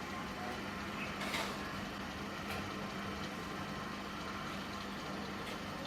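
Faint steady background hum with a few soft ticks: low room tone.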